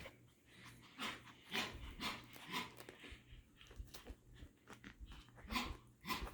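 Five-week-old Parson Russell Terrier puppies scuffling and chewing, heard as faint, scattered soft rustles and gnawing sounds.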